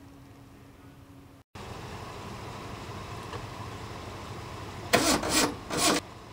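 A vehicle engine running steadily, with two short, loud, noisy bursts near the end.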